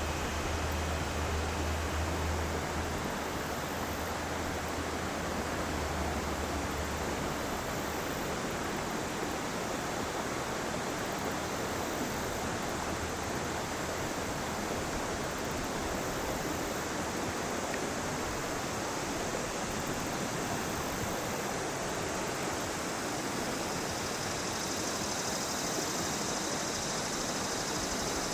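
Water of the Yellow River running, a steady even rush of noise. A low hum sits underneath for the first several seconds and fades out about eight seconds in.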